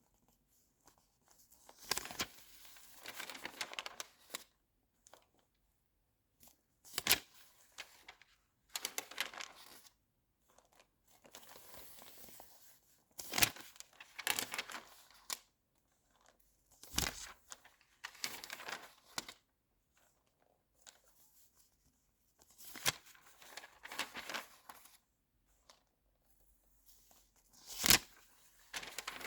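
Magazine pages being turned one at a time, each turn a sharp paper snap followed by a second or two of rustling, about six turns spaced several seconds apart.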